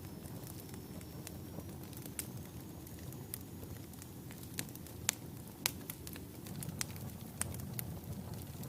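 Wood fire burning in a fireplace: a steady low rumble of the flames, with sharp crackles and pops from the burning logs, the loudest a little after the middle.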